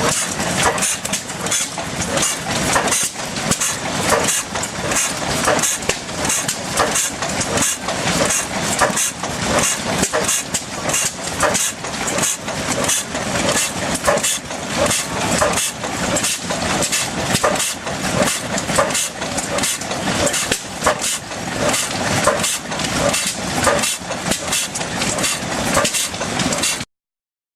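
Austral 6 HP stationary engine running steadily while driving an Ajax water pump, with a regular rapid beat; the sound cuts off suddenly near the end.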